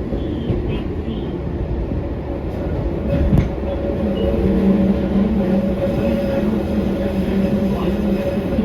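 Eizan Electric Railway 900 series "Kirara" electric train running, heard from inside the car: a steady rumble of wheels on the track, with one sharp click about three and a half seconds in and a steady hum joining soon after.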